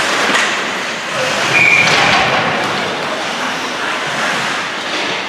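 Ice hockey rink crowd noise: a steady wash of spectators and rink sounds, with a brief high-pitched tone about one and a half seconds in.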